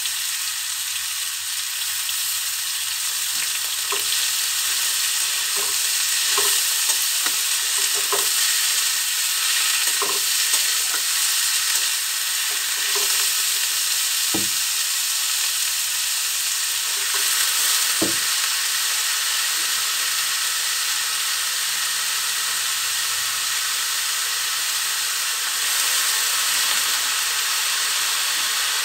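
Grated bottle gourd frying in hot mustard oil and cumin in a metal kadhai, a steady sizzle. A metal spatula stirring it scrapes and knocks against the pan a number of times in the first two-thirds, two knocks standing out.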